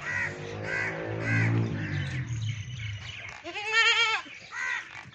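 Makhi Cheeni goats bleating: a long, low call falling in pitch over the first few seconds, then a higher, wavering bleat about three and a half seconds in. Birds chirp repeatedly alongside.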